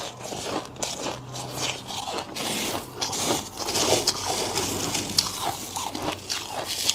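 Thick frost being crunched and scraped. Separate crunchy strokes come first, then from about two seconds in a denser, hissy scraping of the frost layer.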